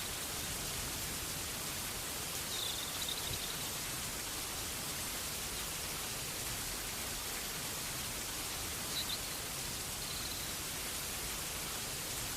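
Steady rainfall, an even hiss, with a few faint, brief high-pitched chirps about three seconds in and again near nine and ten seconds.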